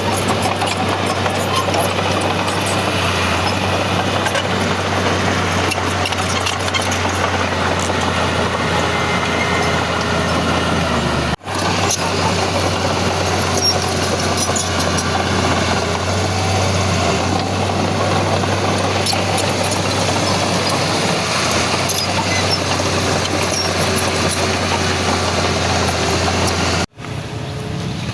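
Heavy earthmoving machinery's diesel engine running steadily under work, with a constant low hum. The sound breaks off for an instant twice, about a third of the way in and near the end.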